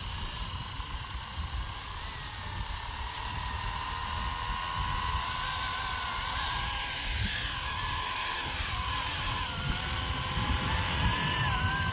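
Electric Blade 230 RC helicopter in flight: a high motor-and-rotor whine whose pitch wavers up and down, dipping noticeably about eight to nine seconds in. Wind buffets the microphone underneath.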